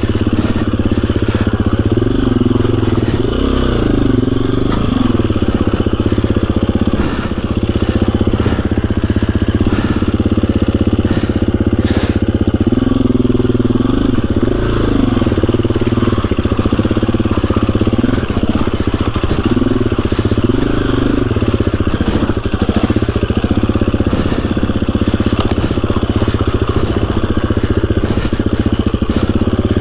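KTM EXC-F 350 enduro bike's single-cylinder four-stroke engine running under way, its revs rising and falling over and over as it is ridden along the trail. A single sharp click about twelve seconds in.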